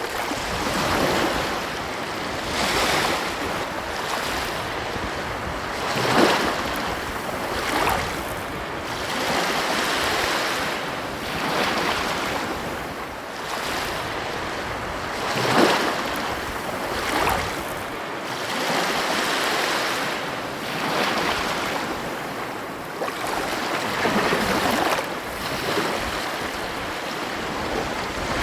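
Ocean waves breaking and washing up a beach: a steady hiss of surf that swells and falls every couple of seconds, with two sharper crashes, about six seconds in and past the halfway point.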